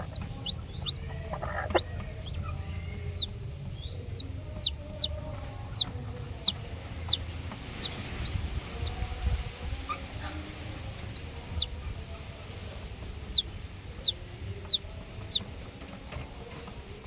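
Aseel Parrot chicken peeping: a string of short, high chirps, each dropping in pitch, about two a second. There is a lull in the middle and a last few louder chirps before they stop near the end.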